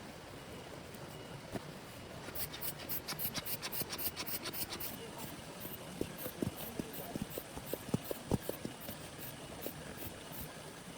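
Steady rain, with a quick run of high clicks about two seconds in and then scattered, irregular knocks and taps.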